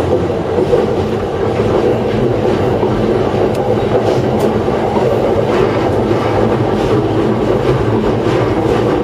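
Yamanote Line electric commuter train running along the track, heard from inside at the front: a steady rumble of wheels and running gear, with a few faint clicks from the wheels over the rails.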